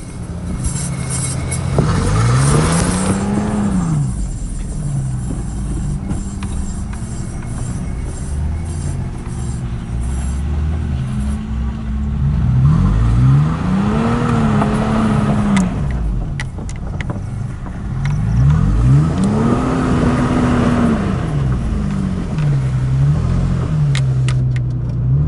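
Off-road SUV engine revving up and falling back again and again as it drives through mud, heard from inside the cab, with a few knocks and rattles in the second half.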